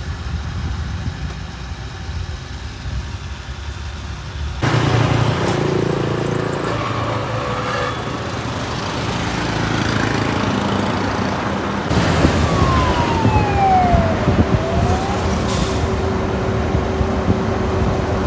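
A bus running on the road, its engine and tyres making a steady noise that jumps abruptly twice. Near the middle of the second half a short tone slides down and back up, followed by a faint steady tone.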